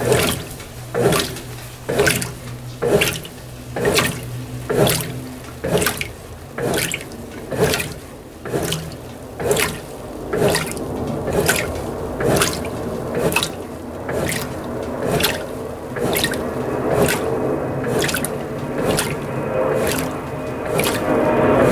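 Brastemp BWT12 12 kg top-loading washing machine agitating a delicate load on its gentle delicate-cycle profile: water sloshes in a regular stroke about once a second. A low hum sounds for the first several seconds and then stops.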